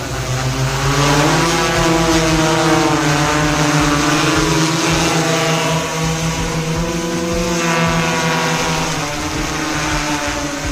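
Agricultural spraying drone's propellers running with a steady motor hum, the pitch sagging and rising slightly as the motors change speed.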